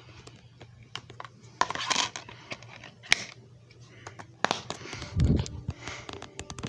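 Irregular clicks, taps and rustling of objects being handled, with a low thump a little past five seconds in.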